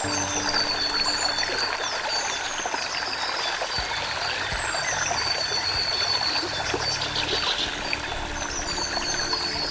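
Stream of running, trickling water, with high thin bird calls repeating several times above it.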